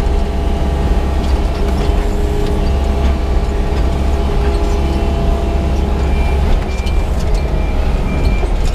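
Yanmar crawler excavator's diesel engine running steadily under load as the machine digs with its bucket. From about six seconds in, a faint high beep repeats at an even pace.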